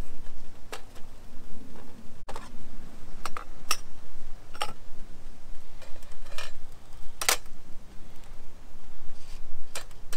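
Irregular light clicks and clinks of camp cookware being handled during a brew, about a dozen sharp ticks at uneven intervals.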